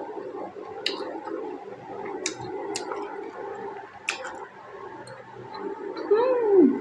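Close-miked chewing of a juicy pork momo: soft wet mushing with several sharp mouth clicks and smacks. Near the end comes a short hummed 'mmm' that rises and falls in pitch.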